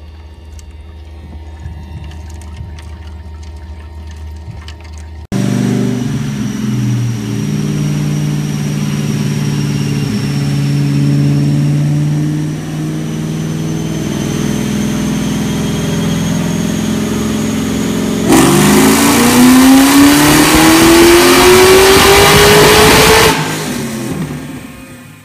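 Supercharged 4.6-litre DOHC V8 of a 2003 Mustang Cobra running on a chassis dyno, first idling with a thin high whine over it, then about 18 seconds in making a full-throttle pull, its note rising steadily for about five seconds before the throttle shuts. The engine breaks up a little during the pull from spark blowout. A low hum comes before the engine is heard.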